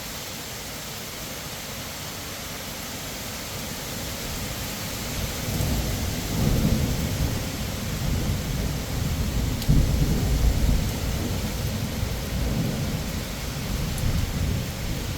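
Heavy rain hissing steadily; about five seconds in, a long rolling rumble of thunder from a close lightning strike builds up, loudest around ten seconds in, and keeps rumbling to the end.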